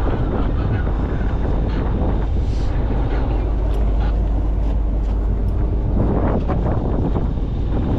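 A small yacht's engine running steadily under way, a constant low rumble, with wind buffeting the microphone.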